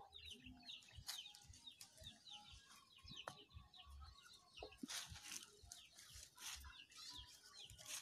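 Faint high bird chirping, many short peeps repeated a few times a second, with scattered rustles and knocks from the phone brushing against a goat and the fence wire.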